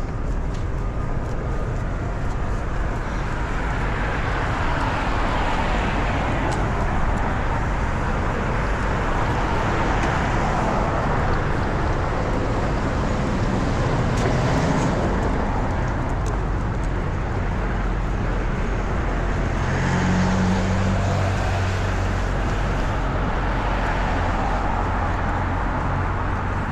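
Road traffic: cars passing one after another, each swelling and fading, over a steady low rumble, with a heavier engine hum about two-thirds of the way in.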